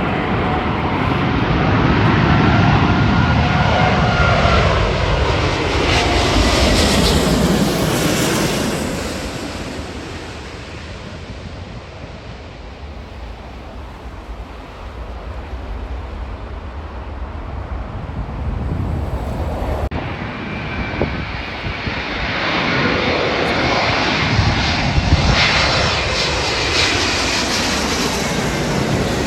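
Jet airliners flying past low, one after another. The first passes with a whine falling in pitch and fades after about ten seconds; a second builds up loud again from about two-thirds of the way through.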